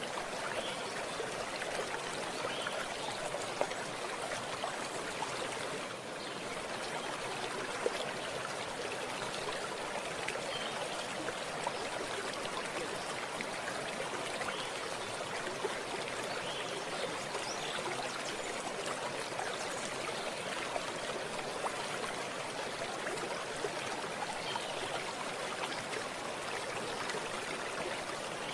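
Running water of a small stream, a steady babble and trickle with small splashes throughout.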